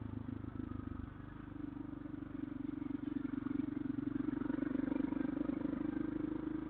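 Motorcycle engine running steadily under way, growing a little louder from about two seconds in.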